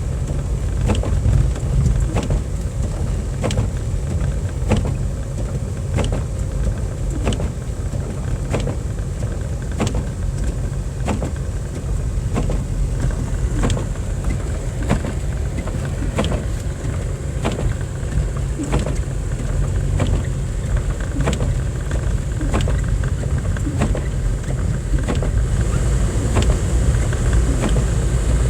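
Car driving on snowy roads, heard from inside the cabin: a steady low rumble of engine and tyre noise, with a faint regular tick a little more than once a second.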